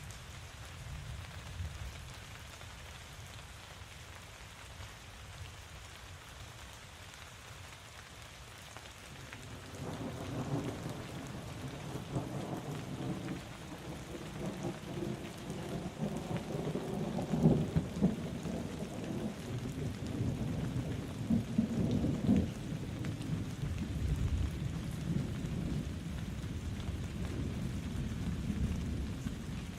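Steady rain falling, with a long roll of thunder that starts about a third of the way in, swells to its loudest around the middle and keeps rumbling to the end.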